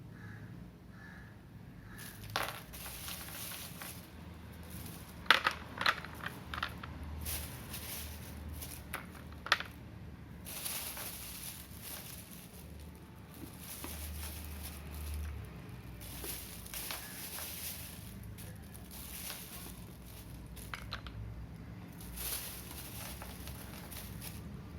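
Chunks of half-roasted clay and multani mitti crackling and crumbling, with a run of sharp cracks, the loudest about five to six seconds in and again near ten seconds, between stretches of fine hissing crackle.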